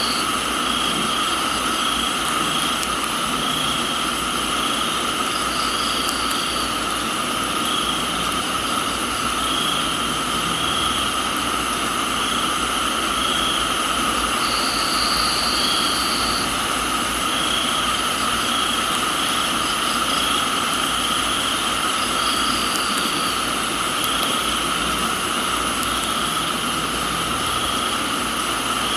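Steady rain hiss in a tropical garden with crickets and other insects chirring continuously, one pulsing about once a second. A higher insect trill comes in for a second or two a few times.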